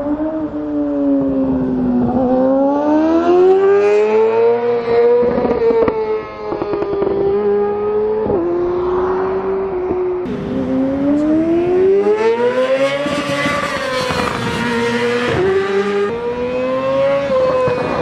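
Yamaha R6 inline-four engine through an Akrapovic full exhaust, its note climbing and falling under the throttle. The pitch drops suddenly several times, as it shifts up a gear.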